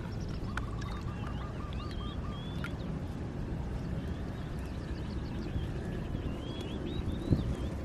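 Birds calling: a quick run of about eight short repeated notes about half a second in, then thin chirps on and off, over a steady low rumble of wind and water. A single thump near the end.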